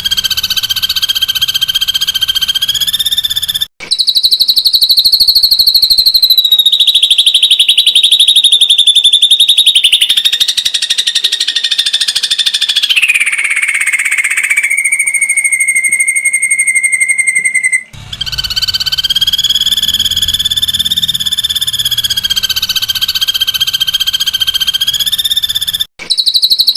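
Ashy drongo giving its rapid, dense 'tembakan' trill, a fast run of pulses pitched around 4 kHz, repeated in long bouts with brief sharp breaks. Midway one bout slides down and holds a lower, steady pitch before the higher trill returns.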